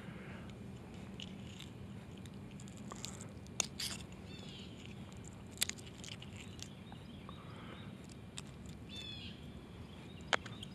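Quiet outdoor ambience with a few short bird chirps and several sharp clicks and scrapes of handling.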